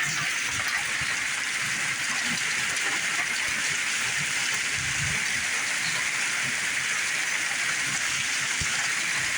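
Heavy rain pouring down steadily, a dense even hiss of a storm downpour.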